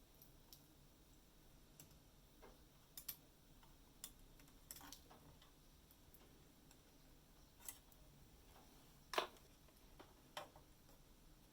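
Faint, irregular light clicks and taps, about seven in all, with the sharpest one about nine seconds in.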